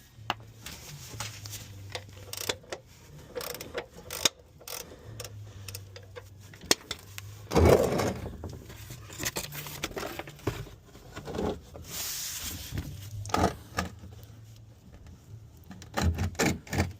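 Hand tools being handled during an oil change: metal clinking and scraping as a wrench or socket is fitted and worked, with a loud knock about seven and a half seconds in.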